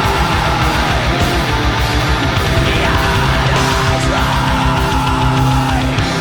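Black metal song played loud: fast, rapid drumming with distorted guitars.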